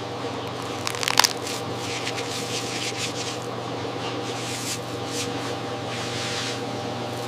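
A steady machine hum with crackling, rustling noise over it and a quick cluster of sharp clicks about a second in.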